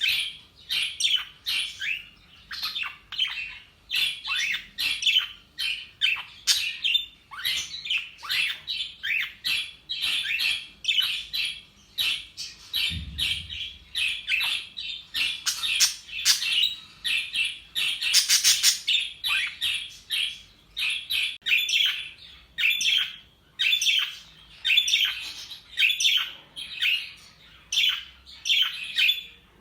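Two pet budgerigars chattering and chirping without pause, a steady stream of short, sharp calls, many falling in pitch. The calls are densest and loudest a little past halfway, and there is a brief low thump shortly before halfway.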